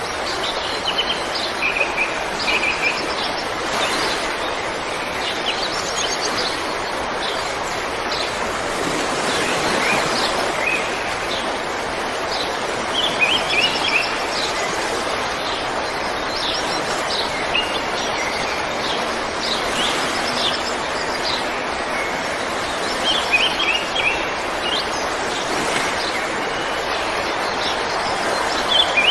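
A river or stream rushing steadily, with small birds chirping in short repeated phrases over the water throughout.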